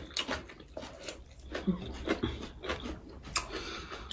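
Close-up eating sounds: chewing and lip-smacking with many short wet clicks, and a couple of brief low hums from the eater in the middle.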